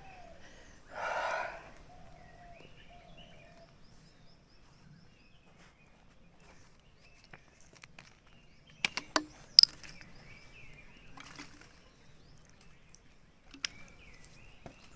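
Forest ambience with faint, scattered bird chirps. A loud, harsh half-second sound comes about a second in, and a quick cluster of sharp snaps about nine seconds in, with another near the end.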